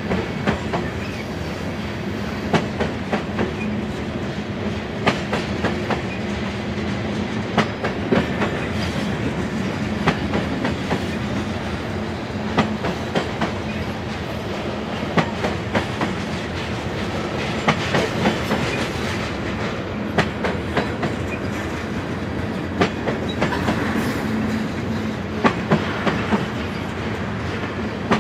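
Freight cars of a mixed train, covered hoppers and tank cars, rolling past: a steady rumble with the wheels clicking sharply every second or so, often in quick pairs.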